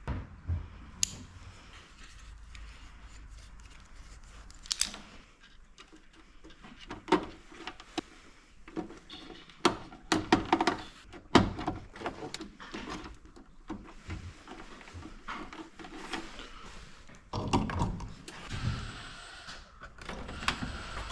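Scattered knocks, clicks and clanks of hand work on a garage door opener powerhead and its hardware, irregular and of varying strength, with a denser cluster of louder knocks near the end.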